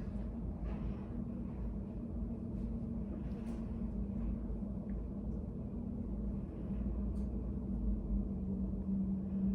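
Study cafe room ambience: a steady low hum and rumble with a constant low tone, and a few faint clicks.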